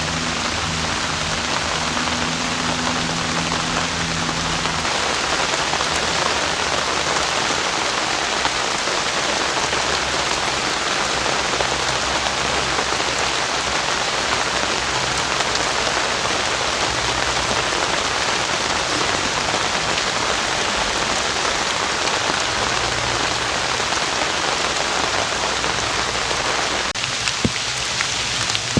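Heavy rain falling steadily, a dense even hiss. A faint low hum sits underneath for the first few seconds, and there is a light knock near the end.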